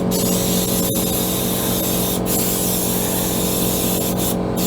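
High-pressure spray hissing steadily against the freshly ported aluminium intake manifold, washing out oil and aluminium shavings, over a steady motor hum. The spray breaks off briefly about two seconds in and again near the end, as the trigger is let go.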